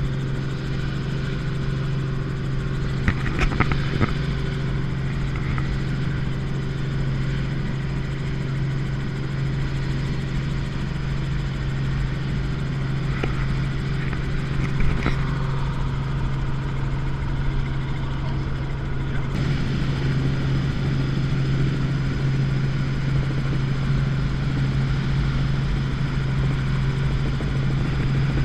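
Helicopter running with a steady, constant low drone of engine and rotor. A few short clicks come through near the start and about halfway, and the drone gets slightly louder about two-thirds of the way through.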